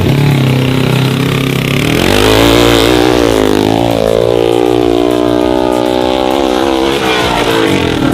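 Dirt bike engine revving hard, its pitch climbing steeply to a peak about two and a half seconds in, then falling away and wavering up and down as the throttle is worked.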